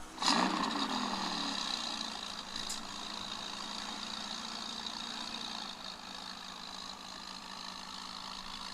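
McLaren 650S's twin-turbo V8 starting up: it catches with a loud flare of revs just after the start, the pitch falls over the next second or so, and it settles into a steady idle.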